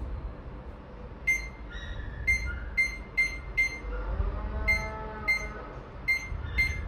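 Washing machine control-panel beeps as buttons are pressed: nine short, high electronic beeps at uneven intervals, the presses that set a wash cycle and start the machine.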